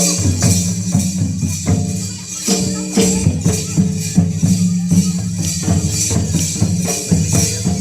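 Ho traditional dance music: drums keep a steady repeating beat under a bright jingling, rattling percussion.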